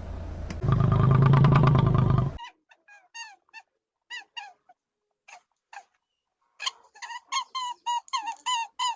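Animal calls: a loud, low-pitched call for about two seconds, then after a gap a string of short, pitched yelping calls that quicken to about two or three a second near the end.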